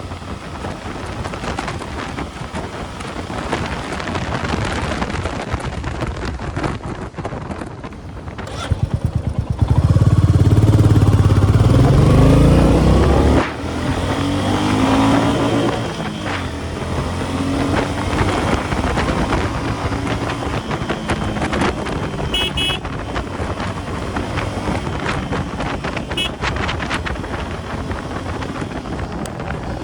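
Royal Enfield Meteor 350's single-cylinder engine on the move under heavy wind noise on the microphone. About a third of the way in it grows loud and rises in pitch for a few seconds under hard acceleration, drops suddenly, climbs again briefly, then runs steadily at speed.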